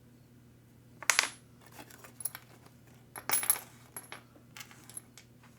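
Small metal parts and tools clinking and clattering: a loud clatter about a second in, another cluster just past three seconds with a brief metallic ring, and lighter clicks between.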